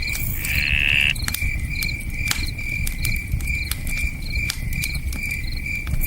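Crickets chirping in a steady, evenly pulsing rhythm over the sharp pops and crackles of a wood campfire and the low rush of a flowing river. About half a second in, a louder buzzing call lasts under a second.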